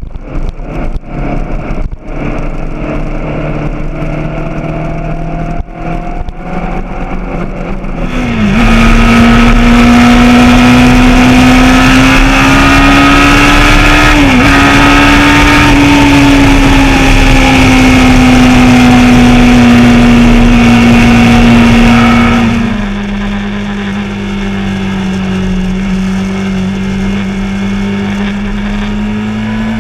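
Honda CBR600RR inline-four engine running on the move, heard from an on-bike camera. About eight seconds in it gets much louder for some fifteen seconds, the engine note rising and falling with two brief breaks like gear changes and a rushing noise over it, then drops back to a quieter steady note that climbs again near the end.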